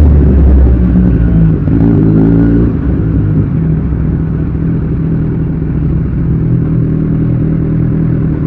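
Kawasaki Z1000 inline-four engine running through an Austin Racing aftermarket exhaust under way. The engine note rises briefly about two seconds in, then holds steady.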